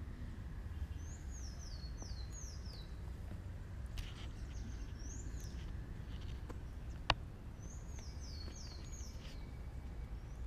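A bird calling outdoors in short runs of quick high notes, each note rising then dropping away. There are four notes about a second in, a single note midway and four more near the end, over a steady low rumble of outdoor background noise. A single sharp click comes about seven seconds in.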